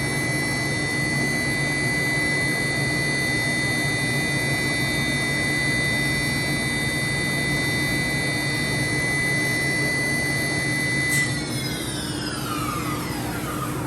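Johnford DMC-2100HN gantry machining center's HSK 63 spindle running at a steady speed with a high whine and a low hum. About eleven seconds in it spins down, its whine falling steadily in pitch as it slows.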